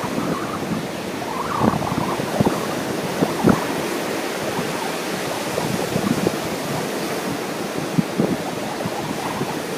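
Ocean surf washing steadily, with wind buffeting the microphone in short gusts.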